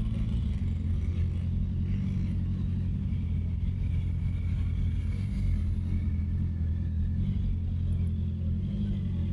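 Honda CB650R inline-four engine running steadily at cruise, heard from a bike-mounted camera, with heavy wind rumble on the microphone.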